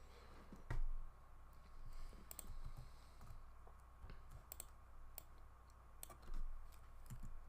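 Irregular, scattered clicks of computer keys being pressed, with a couple of louder knocks, over a faint steady hum.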